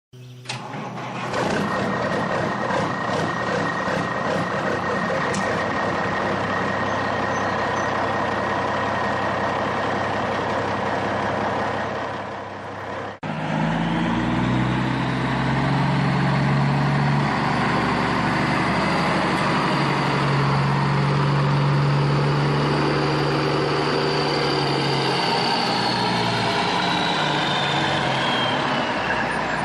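Truck engine running steadily, with an abrupt cut about 13 seconds in to a deeper-pitched engine note. A high whine falls in pitch near the end.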